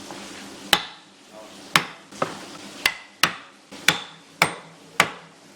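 A hammer striking about eight times at an uneven pace, roughly once every half second to a second. Each blow is sharp and dies away quickly, and a few leave a brief ring.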